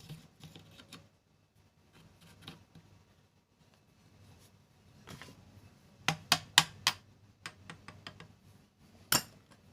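Small hard clicks and taps of sewing machine parts being handled and fitted, with a quick run of four sharp clicks about six seconds in and a single loud click near the end.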